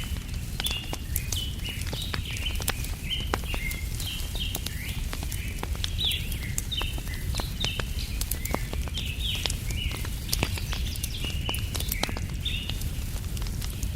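Wood fire crackling with frequent sharp pops over a low steady rumble, while small birds chirp continuously in a busy chatter.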